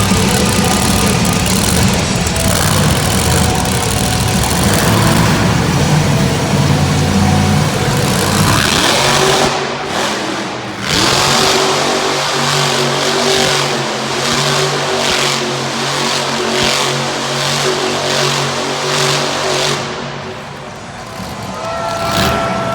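Monster truck engine running hard at high revs during a donut run. It is loud and heavy at first, drops away briefly about ten seconds in, then holds a steady high engine note before easing off near the end.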